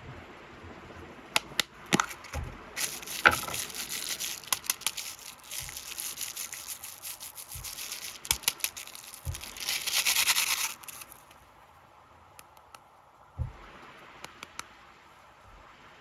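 Plastic snack packaging being handled and unwrapped: crinkling and crackling with sharp clicks. The crinkling grows dense and continuous, loudest just before it stops abruptly about eleven seconds in. A few scattered clicks follow.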